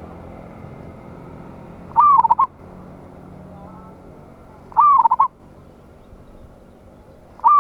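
Zebra dove (perkutut) singing: short, loud cooing phrases of a few quick notes, repeated about every three seconds. Two full phrases, with a third starting at the very end.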